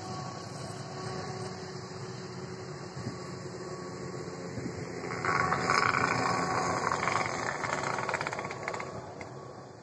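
Passenger train running away around a curve, a steady rumble that slowly fades. From about five seconds in, a louder rushing noise swells for some four seconds and then dies away.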